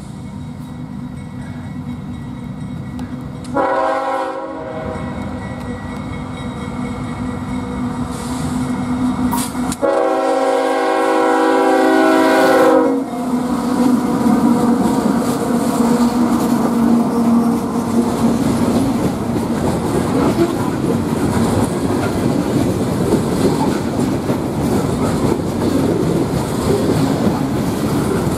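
CSX freight train led by two GE diesel locomotives passing close by: the lead locomotive's horn sounds a short blast about four seconds in and a longer blast about ten seconds in. After that the locomotives go by, and the rest is the steady rumble and clickety-clack of loaded coke hopper cars rolling over the rails.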